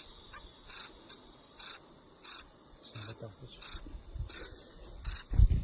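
Insects chirping outdoors: a steady high buzz with a short chirp repeating about every two-thirds of a second. A low thump near the end.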